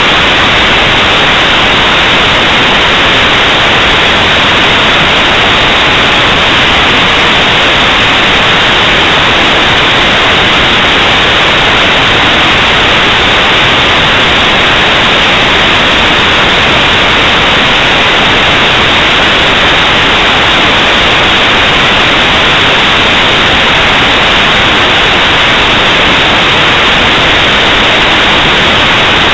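Loud, steady static hiss, unchanging throughout, with no other sound in it.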